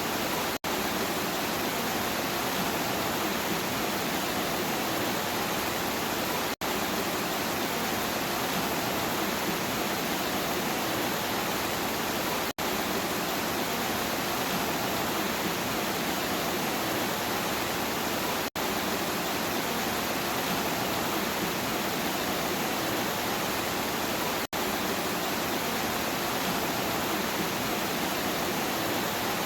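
Steady, even rain noise. It is cut by a brief dropout about every six seconds.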